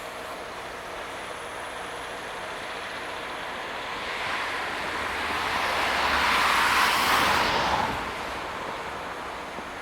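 A vehicle passing over steady background noise: the noise swells from about four seconds in, is loudest around seven seconds, and fades by eight seconds.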